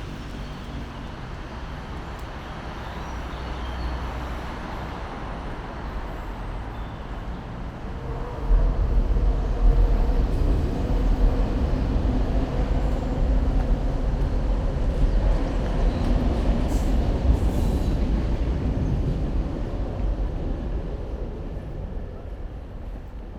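A train passing: a deep rumble that builds, is loudest from about a third of the way in, and fades away near the end.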